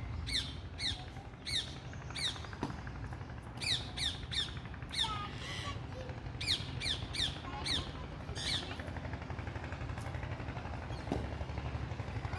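Parrots squawking: a string of short, shrill calls, each sliding down in pitch, coming in clusters of a few at a time over a steady low background hum.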